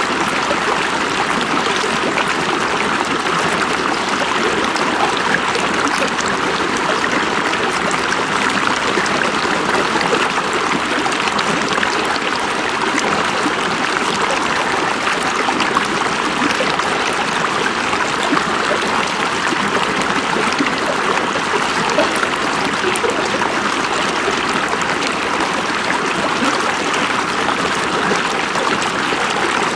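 A river running steadily over rocks, a constant rush of water with small splashes and trickles in it.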